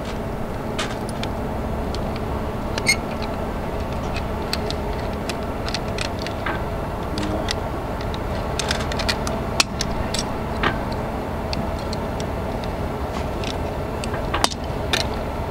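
Scattered light metallic clicks and rattles as climbing hardware (a grigri belay device and its rope and fittings) is handled and threaded, over a steady background noise.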